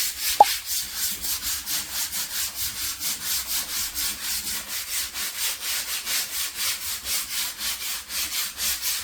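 Rapid, even rubbing or brushing strokes, about five a second, with a brief squeak about half a second in.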